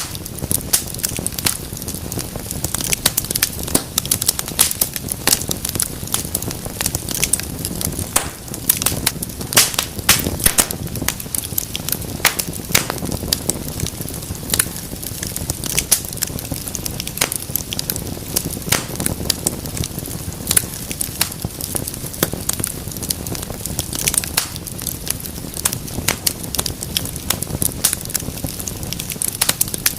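Wood fire burning in a fireplace, crackling and popping constantly in many irregular sharp snaps over a steady low hiss of flame.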